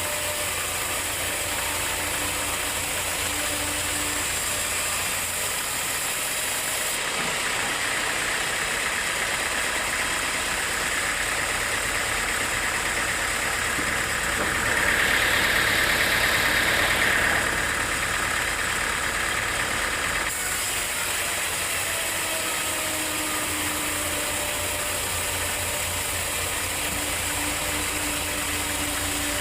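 Sawmill machinery running steadily, with a louder, higher hissing stretch of about three seconds halfway through.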